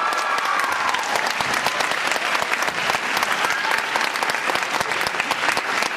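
Theatre audience applauding and cheering as a musical number finishes, the singers' last held note cutting off right at the start.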